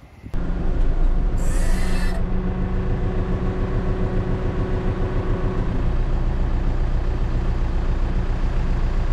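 Tractor engine running steadily while clearing a deep snow drift, with a short hiss about a second and a half in.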